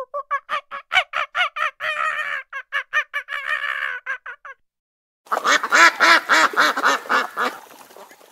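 Ruddy shelduck honking: a fast run of nasal honks, about five a second, that fades out about four and a half seconds in, then after a short gap a louder, denser run of honks for about two seconds, trailing off near the end.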